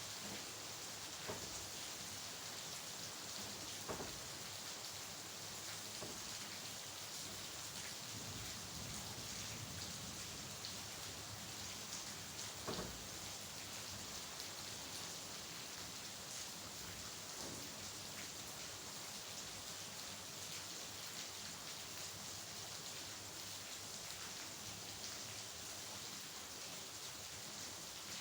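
Steady rain falling, an even hiss with a few louder single drops or drips standing out now and then.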